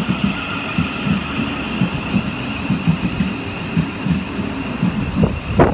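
Thameslink Class 700 electric train rolling slowly past the platform: a steady high electric whine over rhythmic low thumps from the wheels, with a louder knock near the end.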